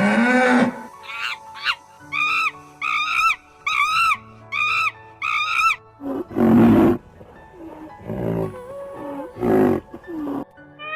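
A series of animal calls over background music: first five short, evenly spaced high calls, then three loud rough roars typical of a lion in the second half.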